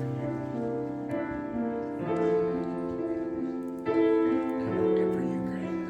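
Slow instrumental keyboard music: held chords that change every second or two.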